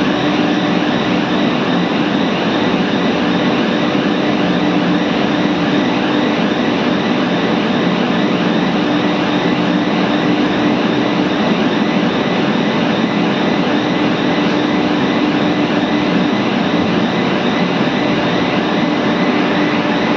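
Melting-furnace machinery giving a loud, steady industrial roar with a constant hum that does not change.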